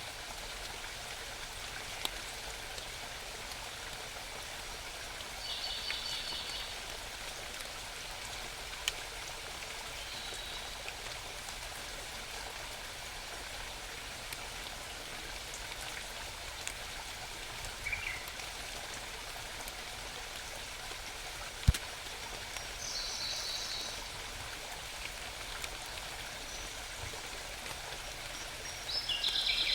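Steady hiss of forest water, with a small bird giving a short, rapid trill three times: about a fifth of the way in, about three-quarters through and at the very end. A few faint ticks and one sharp click, the loudest sound, come about three-quarters through.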